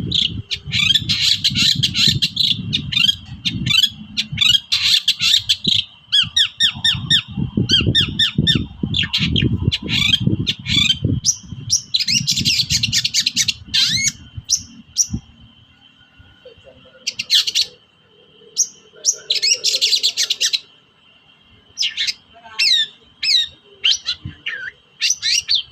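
Long-tailed shrike singing an agitated, harsh, rapid chattering song in dense bursts, in the second half broken into shorter phrases with brief pauses. A faint steady high tone runs underneath, and a low rumble accompanies the first half.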